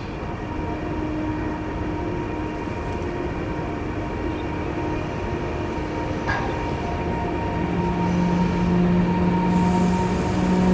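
Train running on the line: a steady rumble with several held humming tones, growing louder, with a lower hum and a hiss coming in over the last few seconds.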